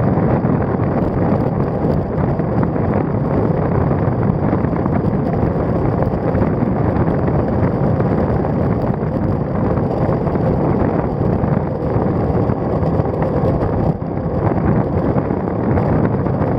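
Steady wind rush buffeting the microphone of a bicycle-mounted action camera on a moving road bike.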